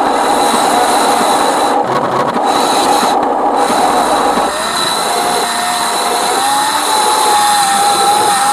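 Electric motor and gearbox of a radio-controlled Scania truck model whining over a rough mechanical hiss. The whine dips and settles lower about halfway through as the truck's speed changes.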